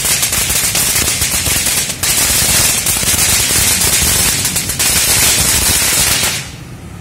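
A string of firecrackers (GE-1402 'Green Lightning' colored rentengan) going off in a rapid, continuous rattle of cracks, with a brief gap about two seconds in, stopping abruptly near the end.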